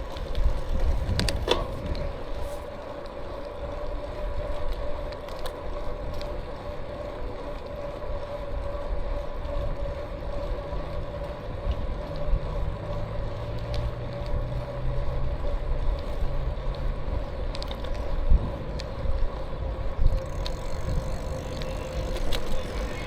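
E-bike riding along at a steady speed: a constant whine holds one pitch, over a low rumble of tyres and wind on the microphone, with a few light clicks.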